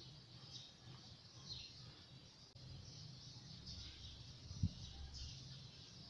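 Faint bird chirps recurring every second or so over a low steady hum, with one short soft knock a little past three-quarters of the way in.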